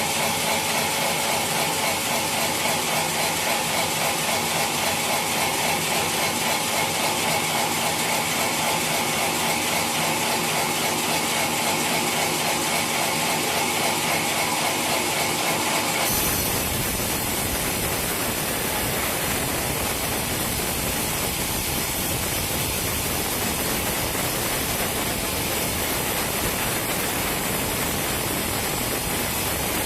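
Sawmill machinery running with a fast, even mechanical rattle; about sixteen seconds in, the sound switches abruptly to a steady, even rushing noise.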